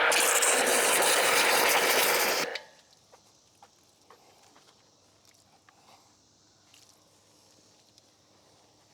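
Kranzle electric pressure washer spraying, a loud steady hiss of water that cuts off suddenly about two and a half seconds in, used to mix up the soap in the wash bucket. After it, only faint scattered clicks.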